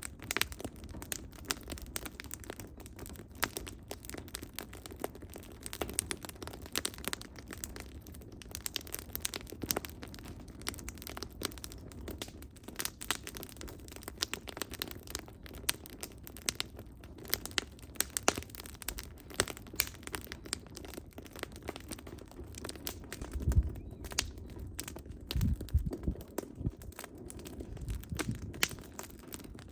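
Firewood burning in an open fire, crackling with irregular sharp pops and snaps over a low rumble of flame. A few dull low thuds come about three-quarters of the way through.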